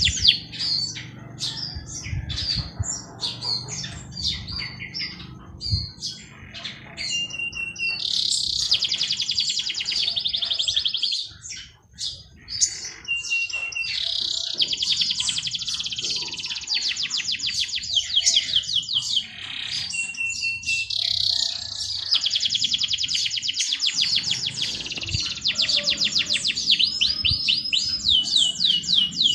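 Songbirds singing: long, fast trills and chirps, with a short high whistled note now and then and a brief lull about twelve seconds in.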